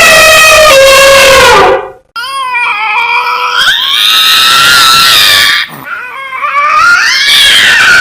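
Animal calls from two separate clips. A steady, high-pitched call stops about two seconds in, and after a short gap a whining call follows that glides up and down in pitch.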